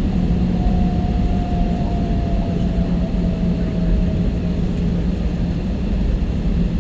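Jet airliner cabin noise: the engines' loud, steady low drone, with a faint tone gliding slightly down over the first few seconds.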